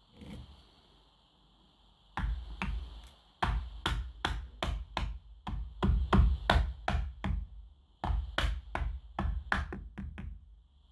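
The plastic lid of a 12-volt car battery being knocked down onto the case, a steady run of sharp knocks about three a second that starts about two seconds in and stops shortly before the end.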